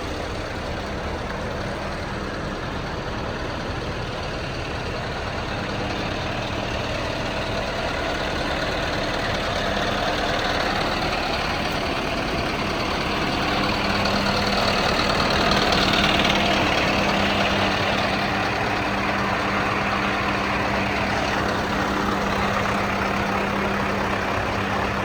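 Scania R560 truck's V8 diesel engine idling steadily, growing a little louder toward the middle.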